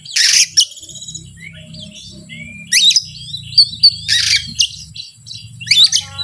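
Oriental magpie-robin (kacer) calling excitedly: loud harsh rasping scolds, about three of them, mixed with short sharp whistled notes and quick chirps. A low steady hum runs underneath.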